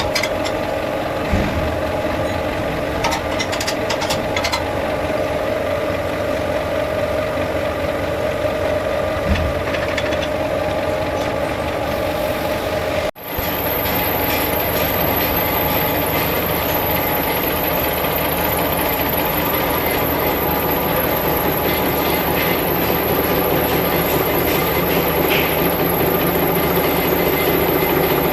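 A steady engine runs with a constant hum. About halfway through it cuts off abruptly and is replaced by a harsher, rattling machine noise, which runs on steadily.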